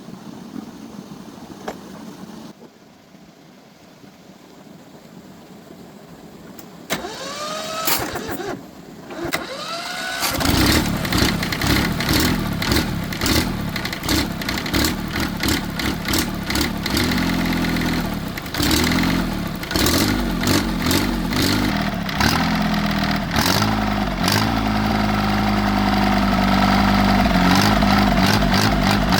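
Repaired tractor engine being started: two short rising whines of cranking, then the engine catches about ten seconds in and runs with a steady, even beat.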